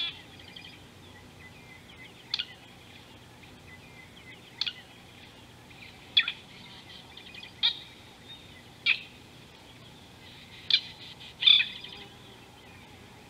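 Wild birds calling: a short, sharp call comes about eight times, every one to two seconds, over a faint, steady chirping of other birds.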